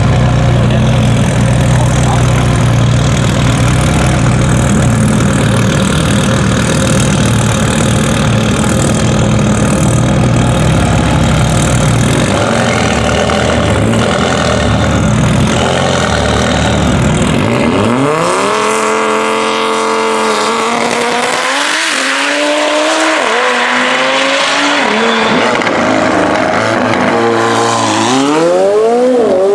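High-powered race car engine at full throttle on a drag strip. The first part is a loud, deep rumble. In the second half the engine note climbs in pitch, drops briefly several times as it shifts up through the gears, and climbs again.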